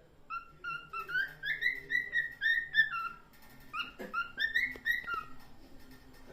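Red-eyed cockatiel singing: a quick run of short whistled notes, about four a second, then a brief pause and a second, shorter phrase about four seconds in.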